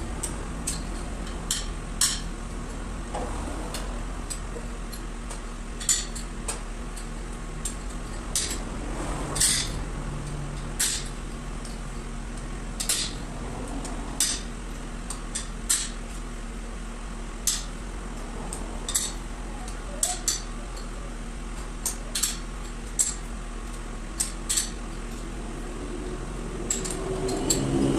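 Irregular metallic clinks and taps of hand tools and engine parts being handled during cylinder-head work, over a steady low hum.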